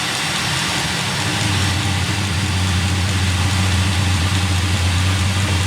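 Eberspacher D1L diesel air heater running just after firing: its combustion fan whirring over a steady low burner hum that grows stronger about a second and a half in.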